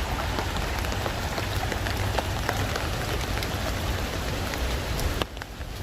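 Hail and rain pelting down steadily, with scattered sharp clicks of hailstones striking hard surfaces; the sound drops away for a moment about five seconds in.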